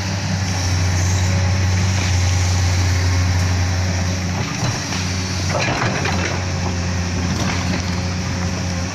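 Heavy diesel engine running steadily with a low, even hum, and a short burst of harsher noise a little past the middle.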